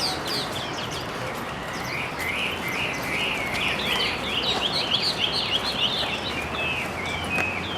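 Wild bird calling: a quick run of short chirps and warbled notes, busiest from about two seconds in until near the end, over a steady background hiss.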